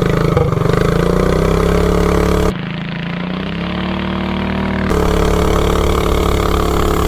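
Predator 420cc single-cylinder engine of a minibike running hard and accelerating through a torque converter, its pitch slowly climbing. The note drops abruptly about two and a half seconds in, climbs again, and jumps back up near five seconds.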